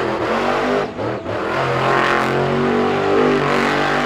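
Monster truck engine revving hard, with a brief lift off the throttle about a second in before it pulls again.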